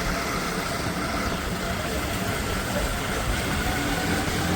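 Motorcycle engine running steadily while riding, under a steady rush of road noise.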